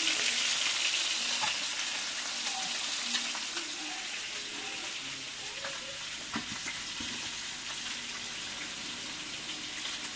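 Onions sizzling as they fry in oil in a pot, the sizzle easing off over the first few seconds, with a few light clicks.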